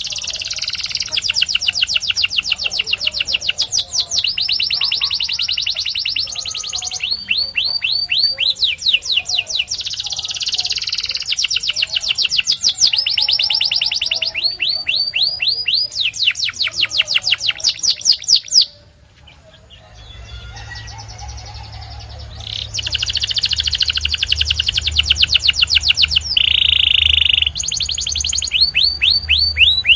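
Canary singing: fast rolling trills of repeated downward-sweeping notes, switching to a new trill every second or two. The song stops for about three seconds about two-thirds of the way through, then resumes, including a short steady held note near the end.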